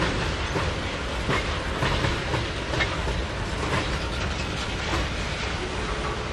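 Train rolling past, a steady rumble with repeated clacks of the wheels going over rail joints.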